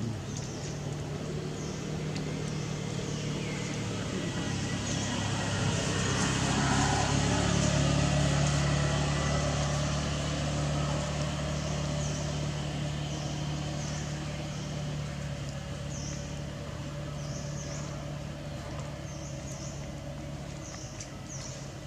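A motor vehicle's engine running nearby, a steady low hum that grows louder about a third of the way in and then slowly fades, with short high chirps scattered over it.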